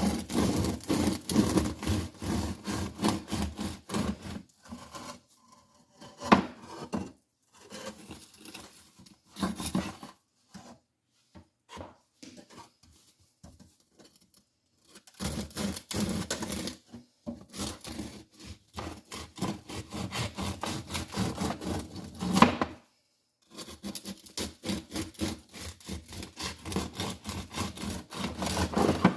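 Quick repeated scraping and rubbing strokes of a utensil working bread dough in a mixing bowl. The strokes come in runs of several seconds with short pauses between them.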